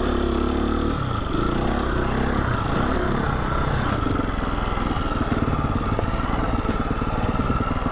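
Husqvarna 350 FE dirt bike's single-cylinder four-stroke engine running under way. Its revs shift up and down in the first three seconds, then settle into a steady low throb.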